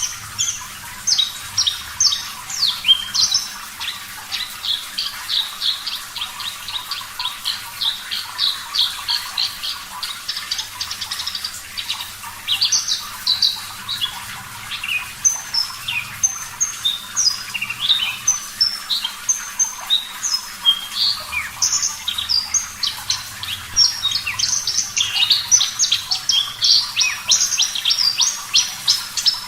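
Javan bush lark (branjangan, parva race) singing a continuous, high-pitched song of varied chirps, sweeps and fast repeated notes, densest at the start and again near the end, over a steady hiss of running water.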